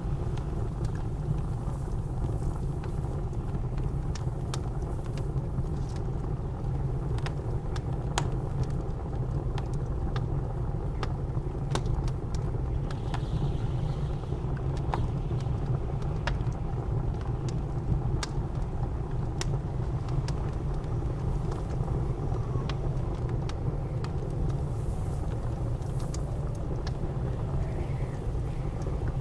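Wood fire crackling in a fireplace, with scattered sharp pops at irregular intervals, over a steady low rumble of blizzard wind.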